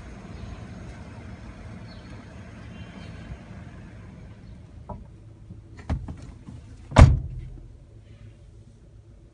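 Car door shut with a loud thump about seven seconds in, after a lighter knock a second earlier, over a steady low background hum.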